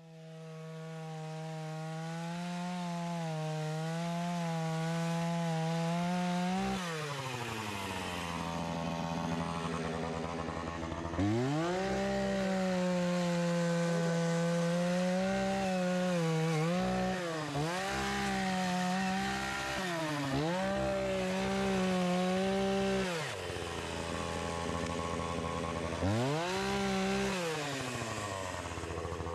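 Chainsaw running at high revs and cutting through fallen logs. The engine note sags several times under load and drops to idle twice between cuts, then revs back up.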